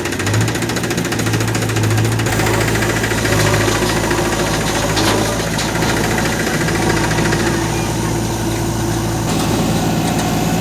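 Heavy diesel engine running steadily at an even pitch.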